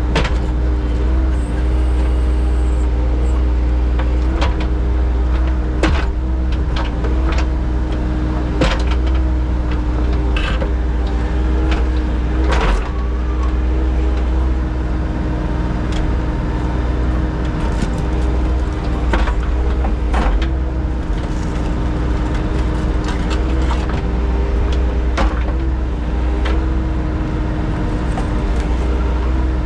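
An engine running steadily with a low drone, likely a piece of earth-moving equipment at work, with sharp knocks and clanks every second or two.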